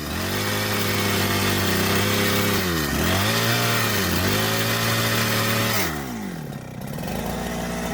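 Chainsaw running at high revs while cutting into a log. Its pitch sags and recovers briefly about three and four seconds in. About six seconds in the cutting noise drops away as the revs fall, then the saw revs up again near the end.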